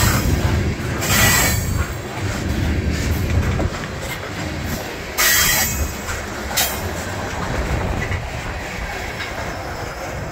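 Freight train's tank cars and a covered hopper rolling past close by, steel wheels rumbling and clattering over the rails, with brief high wheel squeals about a second in and again about five seconds in. The rumble eases in the second half as the end of the train draws away.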